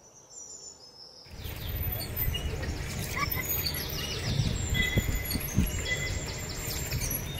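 Birds chirping and trilling in quick repeated phrases. A steady low rumble comes in about a second in and continues under them.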